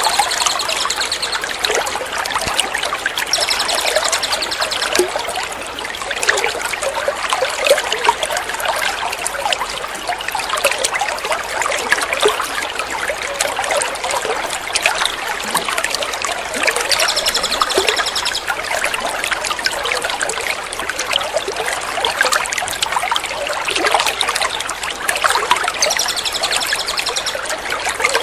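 Steady trickling, splashing water, with short bursts of a small bird's rapid high trill that come back every several seconds: near the start, about four seconds in, about seventeen seconds in and near the end.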